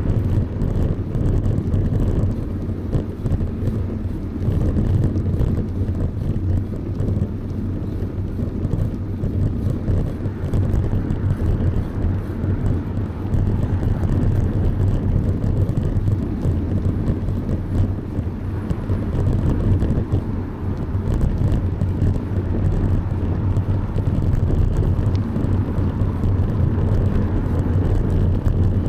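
Steady low rumble of wind buffeting the microphone on a moving bicycle, with road noise under it.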